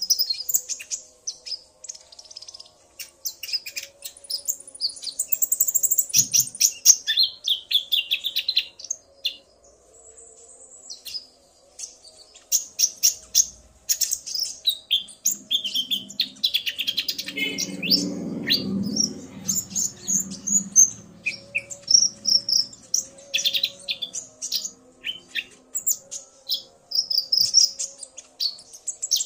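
Olive-backed sunbirds (konin), male and female, calling back and forth in rapid high-pitched chirps and twittering trills, a male singing excitedly in answer to the female. A faint low muffled noise comes in briefly partway through.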